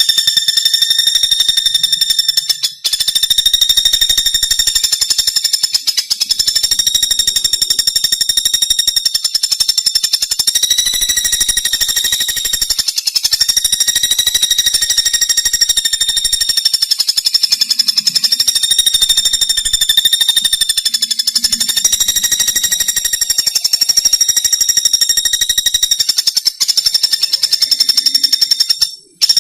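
Pelatuk bawang, a small woodpecker, calling in a long, very rapid, high trill held at a steady pitch. The runs go on for several seconds at a time, with brief breaks about 3, 6, 13 and 27 seconds in.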